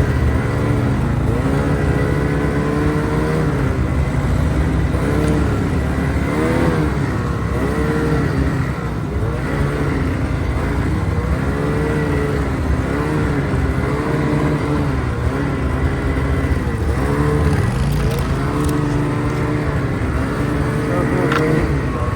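Snowmobile engine running under load, its pitch rising and falling again and again as the throttle is opened and eased.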